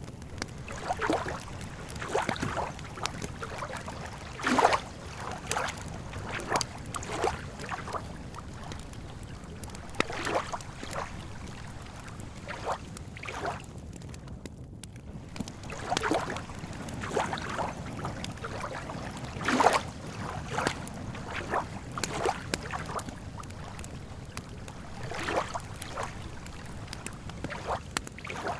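Small waves lapping and splashing irregularly against a lakeshore, every second or so, with a campfire crackling in short sharp clicks over a steady low rumble.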